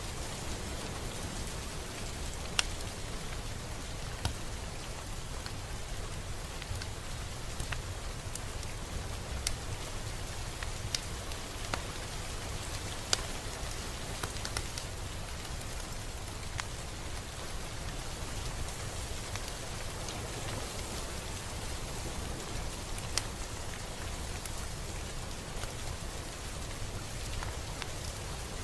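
Steady rain falling, with a low rumble underneath and single close drops ticking sharply on a surface every few seconds.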